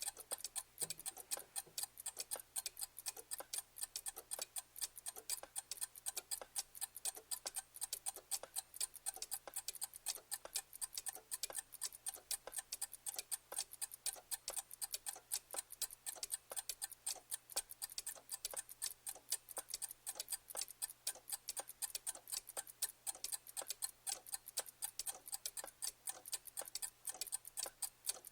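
A clock ticking steadily: quick, sharp, evenly spaced ticks several times a second, with a faint low hum beneath.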